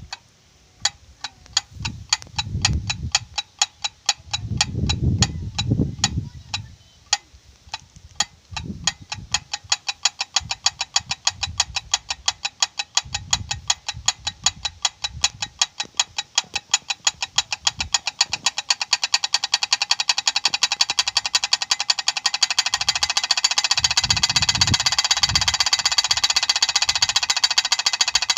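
Wind-driven propeller bird scarer clacking as its blades turn, in regular sharp clicks. The clicks speed up from a few a second to a fast, louder rattle as the wind picks up, with gusts of wind rumbling on the microphone.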